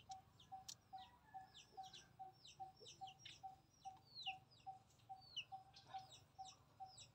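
Faint birdsong: many short, quick chirps sliding down in pitch, over a regular run of short lower pips about two or three a second.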